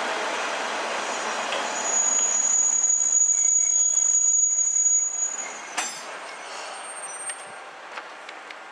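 A Niigata Transys NT3000 diesel railcar rolls into the platform and brakes to a stop. A steady high-pitched squeal from the braking train lasts about three seconds. As the rumble dies away there is a sharp click, and the stopped railcar goes on with a quieter hum.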